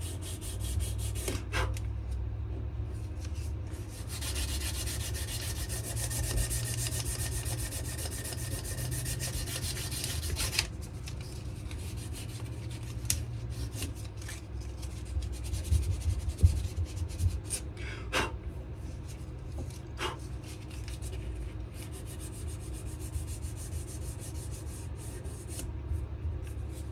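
Sandpaper rubbed back and forth by hand over a wenge-and-maple knife handle, a steady scratchy rubbing that is brightest from about four to ten seconds in. A few light knocks come in between.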